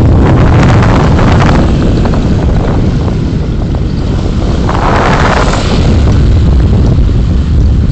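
Vehicle driving noise picked up by a dashcam: a steady low road and engine rumble with wind buffeting the microphone. A brief hiss swells about five seconds in.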